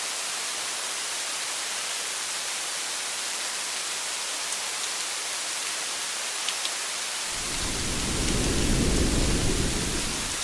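Steady rain on a car, a constant even hiss. About seven seconds in, a low rumble of thunder comes in as the loudest sound, lasts about three seconds, and stops abruptly near the end.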